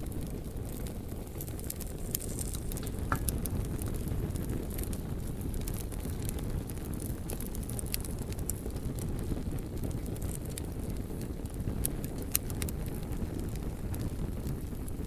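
Wood fire burning: a steady low rush of flame, with scattered sharp crackles and pops and a few louder snaps.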